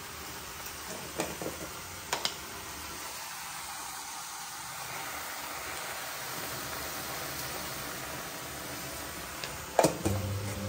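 Chopped spinach frying in a steel kadai, a steady sizzle, with a few light clicks of a spoon against the pan. The loudest click comes near the end.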